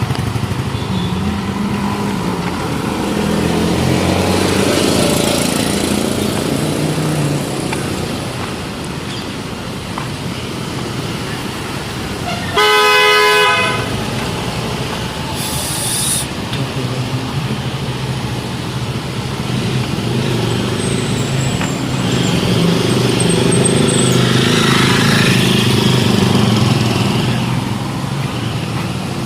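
City street traffic with vehicle engines running steadily, and a loud horn honking once for about a second, roughly halfway through. A brief high-pitched tone follows a couple of seconds later.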